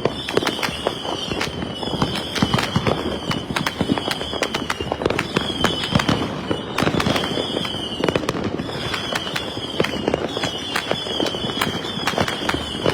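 Fireworks going off continuously, with many rapid pops and bangs and a high wavering whistle that comes and goes every second or two, typical of a Saturn missile battery's whistling rockets.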